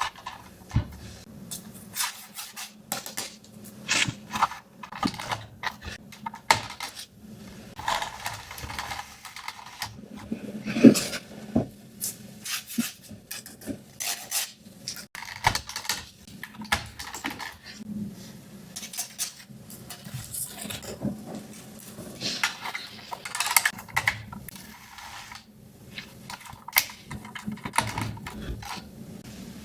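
Small plastic toy pieces being handled, with frequent irregular light clicks and taps and occasional brief rustles.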